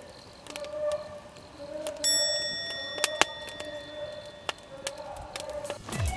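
Scattered light clicks and taps, with one metallic clink about two seconds in that rings on briefly as it fades.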